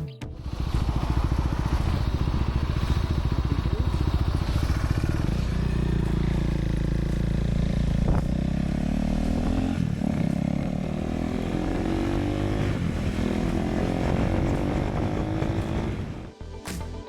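Motorcycle engine heard from on the bike, pulling hard with its pitch rising again and again as it accelerates up through the gears.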